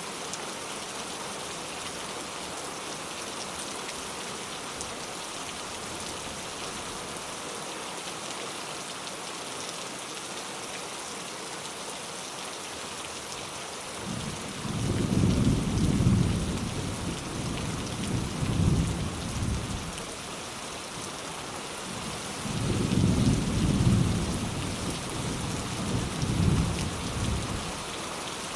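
Steady rain falling, with two rolls of low thunder, the first starting about halfway through and the second near the end, each swelling and fading over a few seconds.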